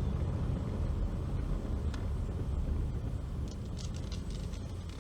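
Car driving at low speed, heard from inside: a steady low rumble of engine and road noise, with a few faint light clicks or rattles near the end.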